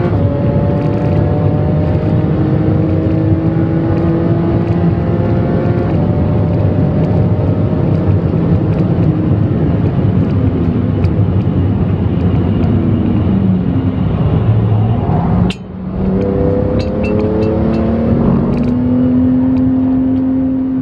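Porsche 911 GT2 RS's twin-turbo flat-six under hard driving, heard from inside the cabin. Its pitch climbs through a gear with an upshift about six seconds in, drops away over several seconds, dips sharply for a moment, then climbs again as it accelerates.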